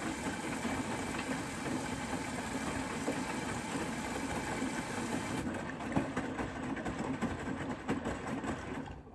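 Bosch Serie 4 WAK20260TR washing machine running with a steady mechanical hum and a few faint knocks. The hiss thins out about halfway through, then the machine's sound dies away near the end as the drum stops.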